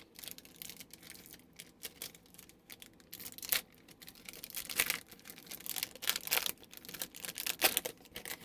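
Plastic wrapper of a lime juice emergency ration bar crinkling and tearing as it is opened, in irregular short crackles that grow louder after about three seconds.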